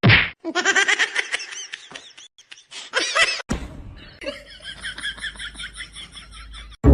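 People laughing in quick repeated bursts, with a faster run of short laughs from about halfway in.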